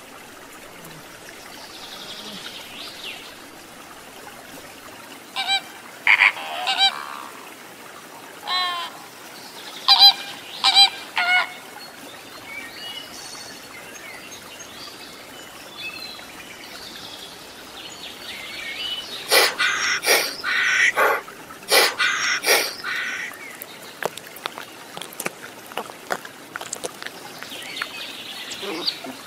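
Short, harsh honking animal calls in a few small groups, then a rapid flurry of sharp calls and clicks a few seconds later.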